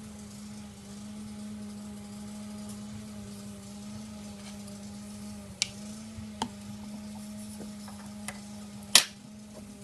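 Small clicks and taps of plastic drink-holder parts being handled while their pivots are greased, with one sharper click near the end, over a steady low hum.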